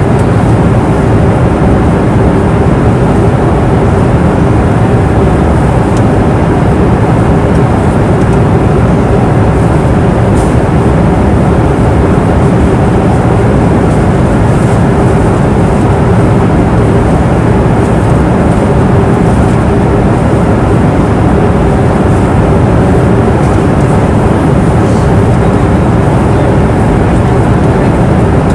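Airplane cabin noise in flight: a steady rush of engine and airflow, heaviest in the low range, with a steady hum tone running through it.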